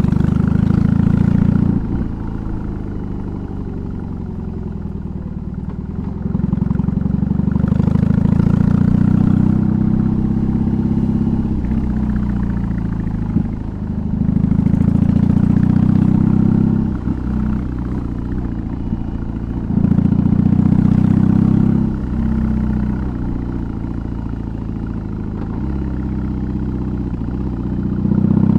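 BMW R18's big boxer twin, with an aftermarket exhaust, riding along: its deep exhaust note swells loud as the throttle opens, four times in all, and settles quieter between pulls, with brief dips where the rider eases off or changes gear.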